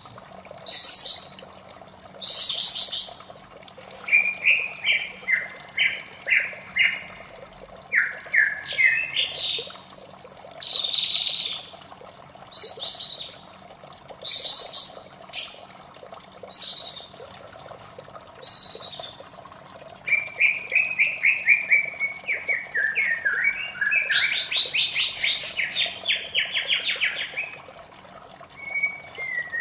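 White-rumped shama singing: varied phrases of clear whistles and sharp notes, with long rapid trilling runs about four seconds in and again from about twenty seconds in. Under it, a steady trickle of running water.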